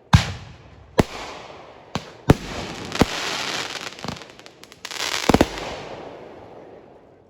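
Fireworks going off: a run of sharp bangs about a second apart, each trailed by hiss and crackle. About five seconds in comes a dense cluster of rapid crackling reports, which then fades away.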